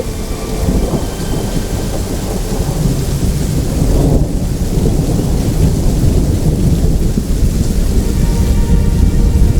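Steady rain with rolling thunder rumbling through it, the deep rumble swelling from about halfway in.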